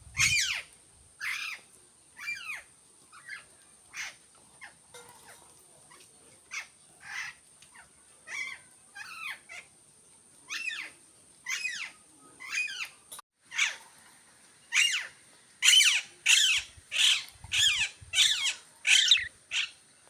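Pet budgerigar chirping in short calls about once a second, coming faster and louder over the last five seconds.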